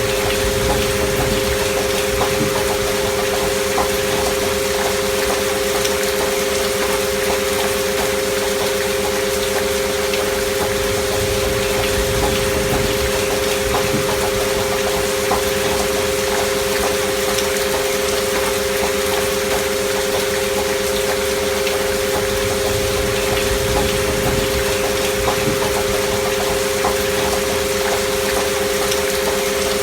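Steady rain with two held pure tones underneath, one just above 500 Hz and one a little lower: a healing-frequency track of sine tones meant as a binaural alpha-wave beat, mixed over rain.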